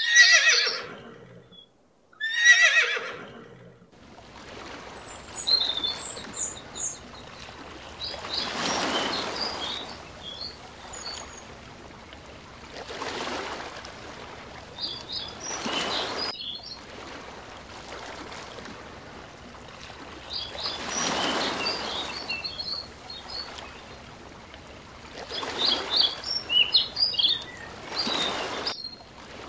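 A horse whinnying twice in the first three seconds, each call falling in pitch. Then surf washing in, swelling and fading every few seconds, with short high bird chirps over it.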